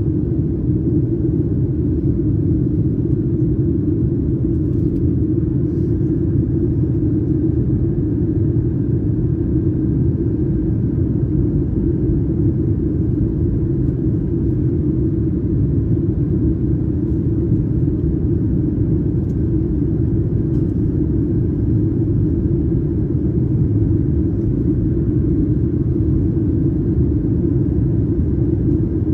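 Steady low rumble of engine and airflow noise heard inside the cabin of a Boeing 737-900ER in flight, from its CFM56-7B turbofans.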